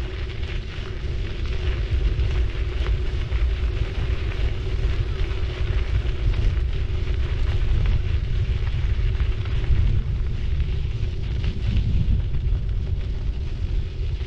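A city bike rolling steadily, its tyres giving a dense crackle on the path surface over a constant low rumble and a steady hum.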